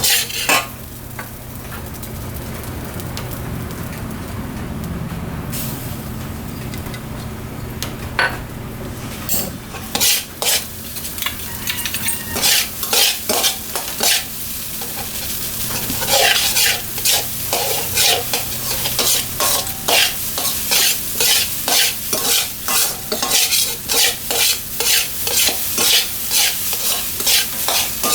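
Fried rice sizzling in a hot pan while a spatula stirs and scrapes it. A few scrapes start about a third of the way in, then a steady run of quick strokes, nearly two a second, through the second half over a steady low hum.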